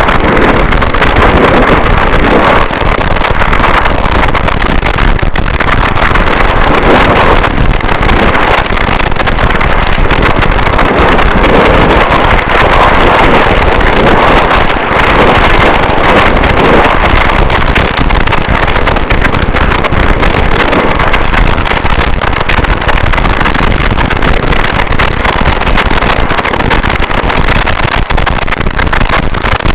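Harsh noise wall: a loud, dense, unbroken wall of distorted static with no beat, melody or pauses, its texture churning slightly throughout.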